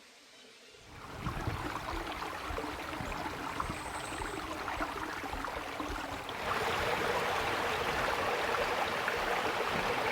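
Water running over rock at a small waterfall at low flow: a steady rush that sets in about a second in and gets louder about six and a half seconds in.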